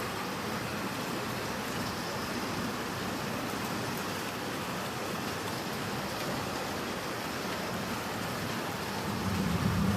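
Heavy rain pouring steadily in a thunderstorm. A low rumble builds near the end.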